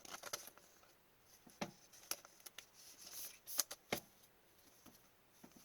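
Hockey trading cards being handled: light, scattered clicks and short rustles as cards slide against each other and tap together.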